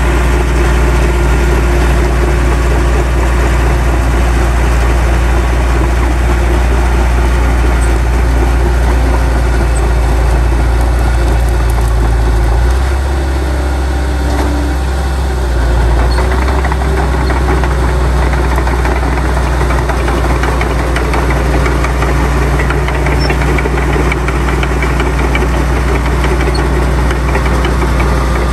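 Diesel engine of heavy earthmoving machinery running steadily. About 13 seconds in the engine note drops briefly, and it picks up again about three seconds later.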